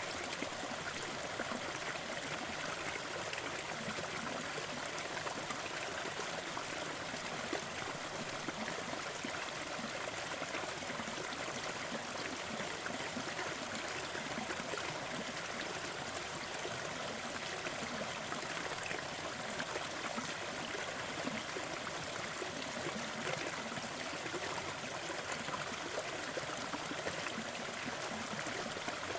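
Waterfall: falling and splashing water in a steady, even rush with a trickling, gurgling texture.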